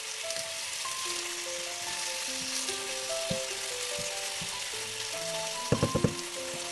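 Chicken pieces and onion sizzling as they fry in ghee in a non-stick pan, stirred with a wooden spoon, a steady hiss throughout. A quick run of four knocks about six seconds in.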